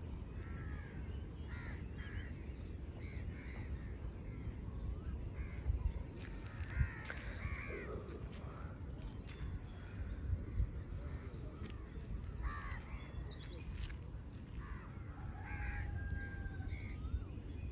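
Dawn bird chorus: many short calls and chirps from several birds, scattered all through, over a steady low rumble of background noise.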